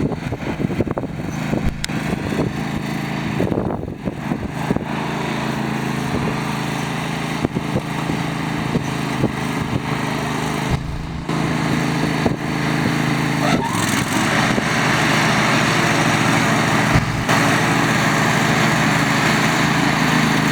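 Yard Machines riding lawn mower engine running steadily, with scattered clicks and knocks in the first few seconds. About two-thirds of the way through it gets louder and fuller and holds there.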